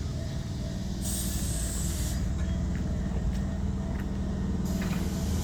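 Tobu Tojo Line electric train at the platform: a steady low hum from its equipment, with two bursts of air hissing, about a second in and again near the end.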